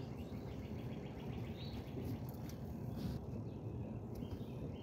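Outdoor ambience with birdsong: a rapid high trill of about eight notes a second for the first couple of seconds, then a few short chirps, over a low steady rumble.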